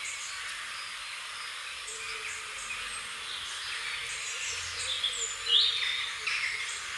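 Wild birds chirping and calling over a steady background hiss, with a cluster of short falling calls about five to six seconds in, the loudest of them.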